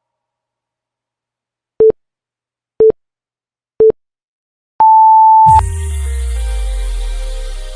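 Workout interval timer counting down: three short low beeps a second apart, then one long higher beep marking the start of the next work interval. Electronic music with a heavy bass comes in right after the long beep.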